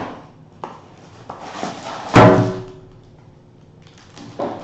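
Handling of an emptied cardboard box: a few light knocks and taps, with one loud hollow knock about two seconds in that rings on briefly.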